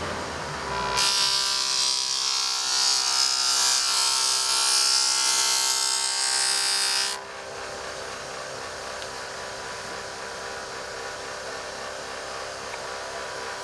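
Small homemade disc sander grinding a workpiece against its spinning disc for about six seconds, a loud abrasive hiss over the motor's steady whine. The hiss cuts off suddenly when the piece is lifted away, and the sander keeps running free with its steady whine.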